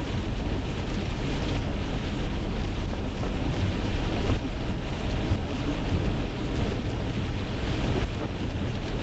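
Steady road noise inside a car driving in the rain, tyres running on a wet road.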